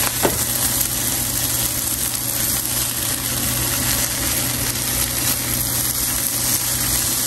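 Fried rice frying in a pan while it is stirred and turned with a silicone spatula, over a steady low hum.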